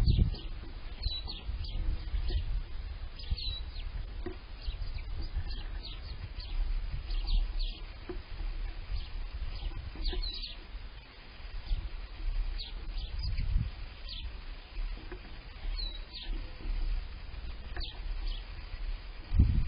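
Yard songbirds chirping and calling: many short, high chirps spread all through, over a low, constant rumble that peaks in a thump at the start and again near the end.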